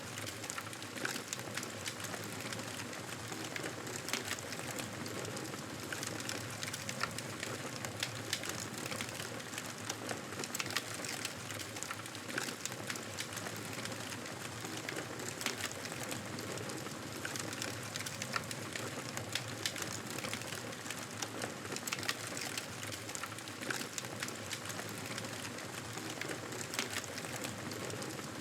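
Wood fire crackling: frequent small, sharp pops over a steady hiss.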